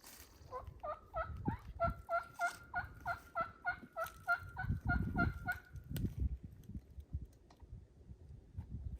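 A run of about fifteen turkey yelps, about three a second, each note breaking from a higher to a lower pitch, stopping just before six seconds in. Low thumping rumbles from handling or wind run underneath.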